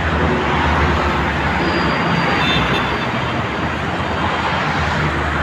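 Steady road-traffic noise, an even rumble and hiss with no distinct events.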